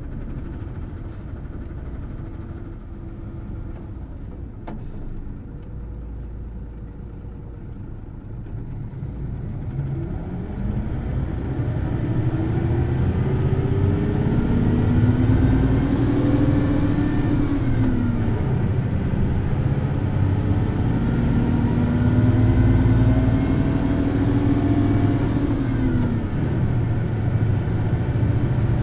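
Hino Blue Ribbon City Hybrid bus driveline heard from inside, running low and steady at first, then getting louder and revving up hard from about a third of the way in. The engine pitch climbs high, falls back twice and climbs again each time, with a faint high electric whine rising and falling alongside.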